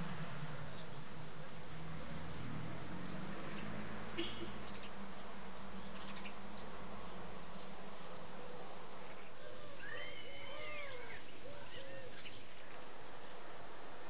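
A low buzzing drone through the first half, then a bird singing a short phrase of swooping whistled notes about ten seconds in.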